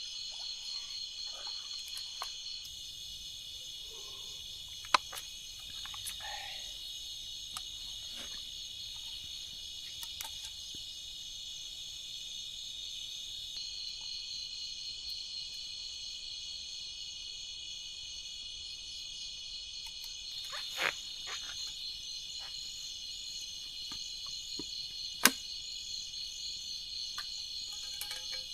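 Forest insects and frogs calling in a steady high-pitched chorus, with a few sharp clicks, the loudest about five seconds in and near the end.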